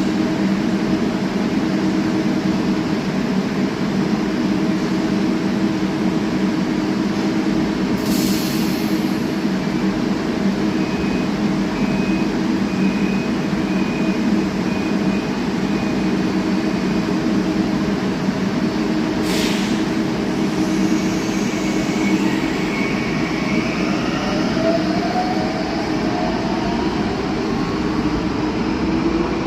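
Translohr rubber-tyred tram running, with a steady hum of motor tones over rolling noise. Two brief hisses come about eight seconds in and again about eleven seconds later, a faint broken beeping sounds in between, and a rising whine begins near the end.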